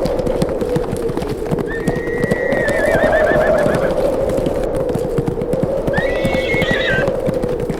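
Horses galloping with a fast, dense run of hoofbeats over a steady howling wind. A horse whinnies twice, a long warbling call about two seconds in and a shorter one about six seconds in.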